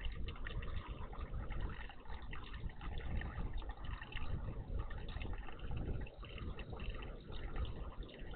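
Water trickling and splashing in a garden bird bath, with a low steady rumble underneath.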